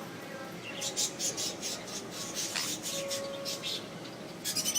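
Small pet bird making a quick run of short, high chirps and scratchy clicks, starting about a second in, with another burst near the end.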